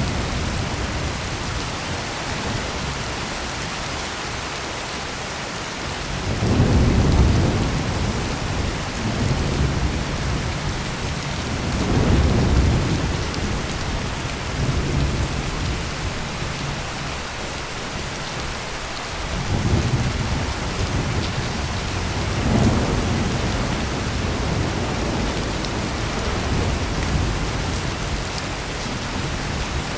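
Heavy rain pouring steadily, with several rolls of thunder that swell and fade, the loudest about a quarter of the way in and the last few about two-thirds through.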